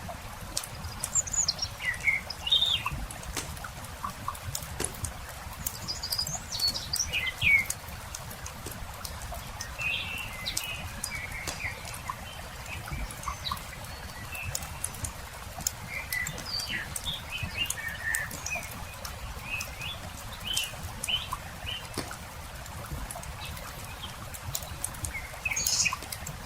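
Campfire crackling in scattered sharp pops, while small birds chirp and twitter in short phrases throughout, busiest about two seconds in, around seven seconds in and near the end. A low steady rumble runs underneath.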